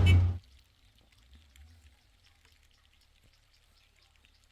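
A vehicle's low engine hum cuts off abruptly just under half a second in, leaving near silence broken only by a few faint, scattered light ticks.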